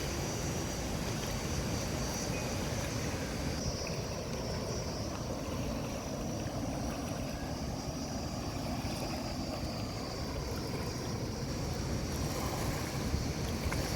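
Steady rushing of flowing water, heaviest in the low end, with a thin steady high tone running above it.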